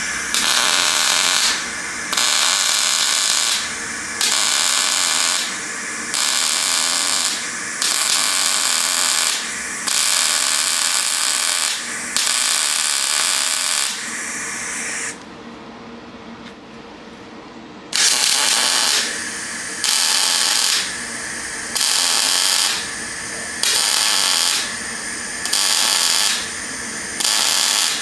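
Electric welder stitch-welding steel repair plates onto a rusted vehicle chassis: a crackling hiss in bursts of about a second each with short pauses between, and a longer break of about three seconds halfway through.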